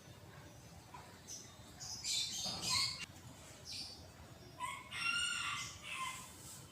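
Rooster crowing twice, the second crow longer.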